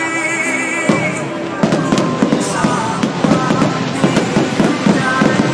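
Fireworks going off in a dense run of rapid pops and crackles, starting about a second and a half in, with music playing underneath.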